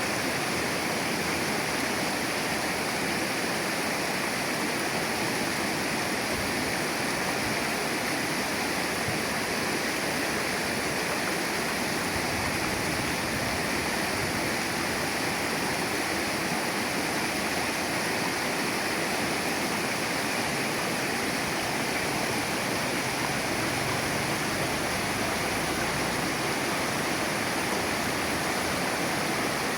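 Shallow river flowing, a steady, even rush of water with no breaks.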